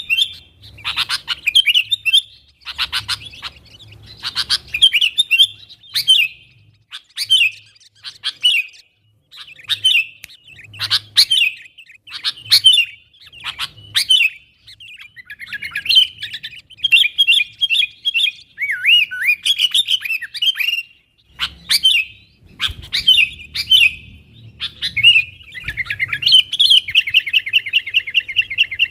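Sooty-headed bulbul (kutilang) singing loud, short, bubbly phrases over and over, one every second or so. Near the end it breaks into a fast, even chattering trill.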